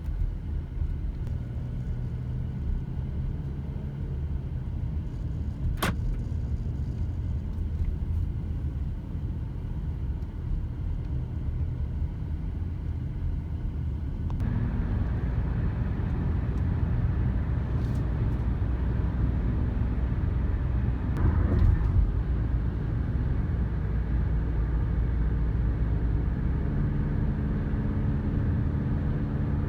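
Motor engine running with a steady low rumble, getting louder about halfway through; a single sharp click about six seconds in.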